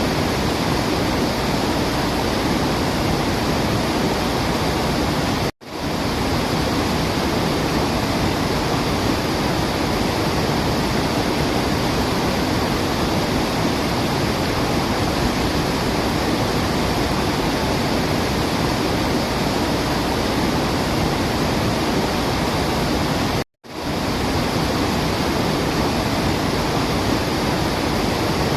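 Steady, even rushing of falling water, with no birdsong audible. The sound drops out to silence twice, briefly, about five and a half seconds in and again about five seconds before the end.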